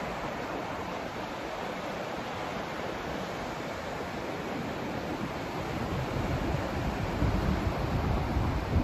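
Steady rushing noise of a white-noise sleep track, its energy weighted toward the lows rather than the hiss. A deeper rumbling swell rises about six seconds in.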